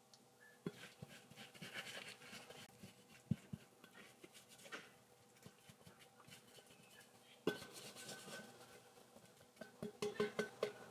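Dishes and cutlery being handled: scattered clinks and knocks of crockery and utensils, with a quick run of clinks near the end.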